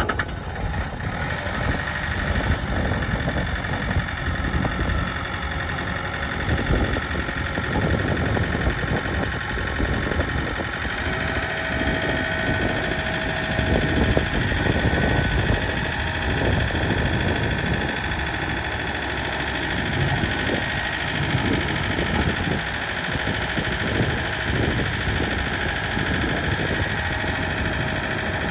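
Kioti RX6620 tractor's diesel engine idling steadily.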